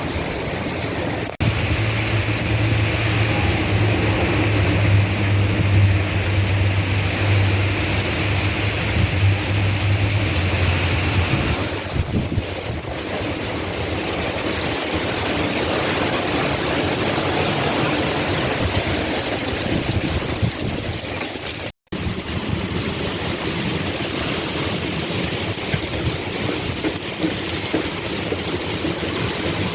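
Strong dust-storm wind blowing hard, a steady loud rush with gusts buffeting the microphone. A low steady hum runs underneath for roughly the first ten seconds, and the sound cuts out for an instant about two-thirds of the way through.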